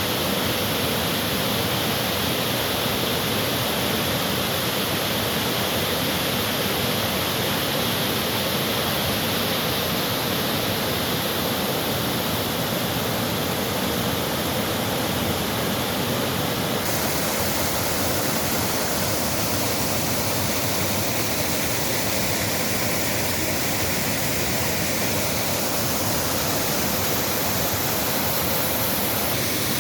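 Waterfall: a steady rush of falling water, even throughout, its upper hiss shifting slightly about seventeen seconds in.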